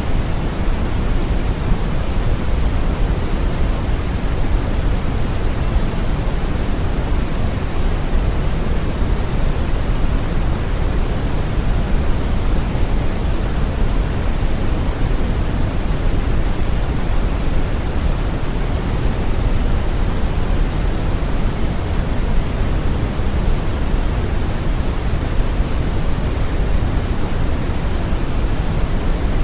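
Brown noise: a steady, deep rushing hiss with its weight in the bass, unchanging throughout.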